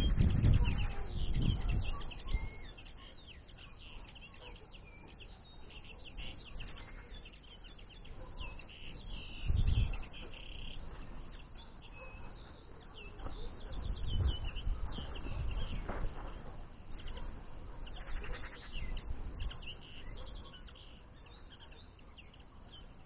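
Small songbirds twittering and chirping in quick short notes throughout. Loud low rumbles on the microphone at the start, with shorter ones about ten and fourteen seconds in.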